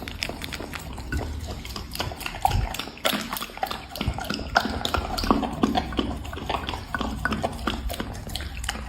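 Black Labrador chewing food close to the microphone: a steady run of irregular wet smacking and clicking bites.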